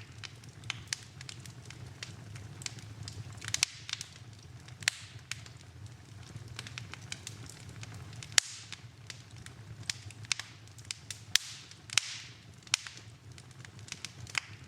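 Wood fire in a fireplace crackling, with irregular sharp snaps and pops over a low steady background. A few snaps stand out louder, the strongest a little past halfway.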